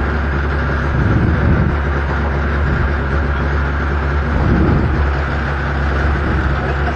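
Renault Clio Williams Group A rally car's four-cylinder engine running steadily at low, even revs, heard from inside the cabin.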